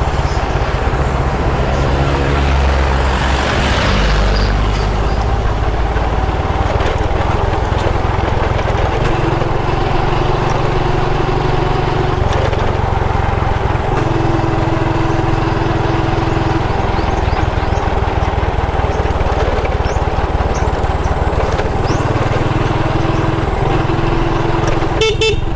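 Motorcycle engine running while under way, its note stepping up and down several times as the rider changes speed.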